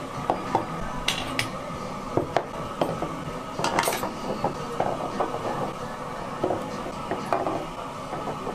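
Tableware clinking and clattering at a restaurant table: dishes and utensils knocking together in irregular sharp clinks over steady background noise.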